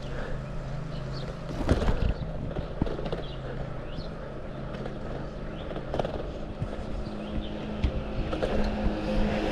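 A mountain bike being ridden on a road: rolling tyre noise with rattles and knocks from the bike, over a steady low engine hum of traffic. The traffic noise grows louder near the end.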